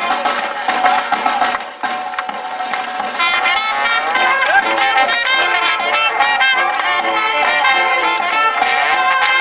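A band playing live music with brass prominent. The sound thins briefly about two seconds in, then comes back fuller with held brass notes.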